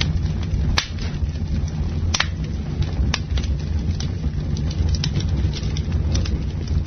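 Campfire crackling: wood snapping and popping in irregular sharp cracks, three of them louder in the first half, over a steady low rumble.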